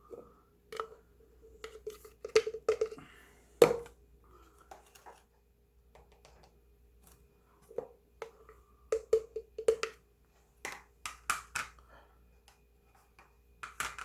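Protein powder being scooped out and added: sharp clicks and taps of a scoop against a tub and a shaker, in short quick clusters, with one louder knock a little under 4 seconds in.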